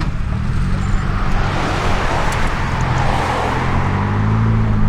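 A car driving past: engine and road noise swell to a peak about halfway through and fade, over the low running of other idling engines.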